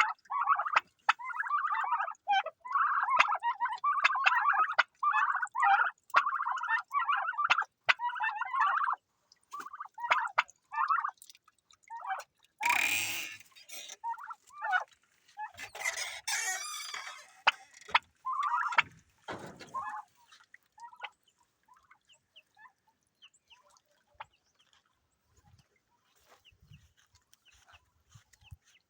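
Poultry calling, chickens clucking among them: a busy run of repeated calls for the first nine seconds or so, then scattered calls that die away to faint ones after about twenty seconds. A brief rustling burst comes about thirteen seconds in.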